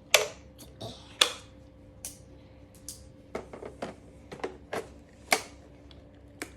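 Sharp plastic clicks and knocks as the dust bin of an iRobot Roomba i3+ robot vacuum is opened and handled. The clicks come irregularly, the loudest right at the start, about a second in and about five seconds in.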